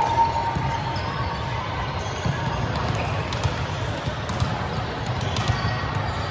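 Volleyballs thudding and being struck in a large indoor gym, many short thumps over a dense low rumble of hall noise. A held tone fades out in the first second or so.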